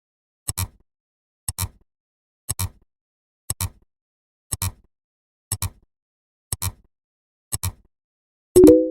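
Short, sharp double clicks, one pair every second, marking a steady count. Near the end a louder short tone of several pitches together sounds once and dies away within about half a second.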